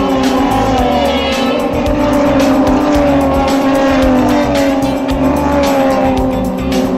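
Race car engines running at high revs under background music with a steady beat.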